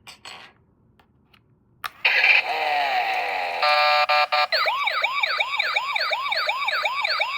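A few light handling clicks and a sharp switch click, then a toy's electronic sound chip plays through its small speaker: a brief burst of sound effects with falling tones, a short beep, then a fast wailing police-style siren that repeats steadily.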